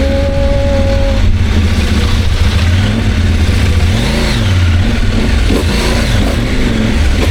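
CFMOTO 800MT's parallel-twin engine running under way over wind noise, the revs rising and falling briefly about four seconds in.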